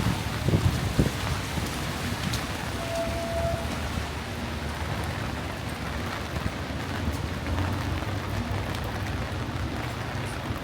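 Heavy rain falling steadily, with a few low thumps in the first second.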